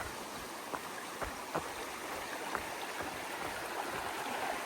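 Small creek running over rocks, a steady rush of water that grows slightly louder near the end, with a few short clicks over it.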